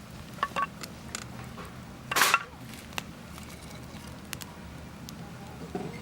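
Wood campfire crackling: scattered sharp pops, with one louder, longer crackle about two seconds in, over a steady low hum.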